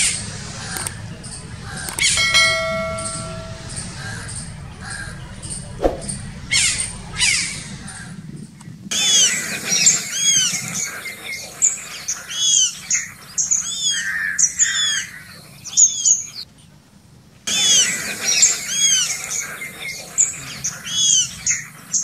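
Many birds chirping in a dense chorus of quick, arched, repeated calls. It starts about nine seconds in, drops out for about a second near the middle of that stretch, and resumes. Before it there is a low background hum with a few scattered calls and one short pitched call about two seconds in.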